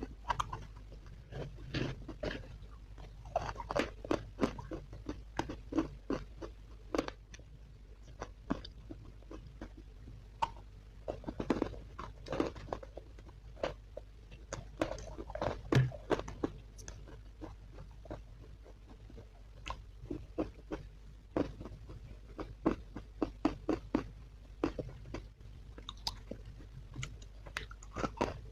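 A person biting and chewing hard, chalky sticks close to the microphone: sharp, crisp crunches come in irregular clusters, several a second at times, with short lulls between bites.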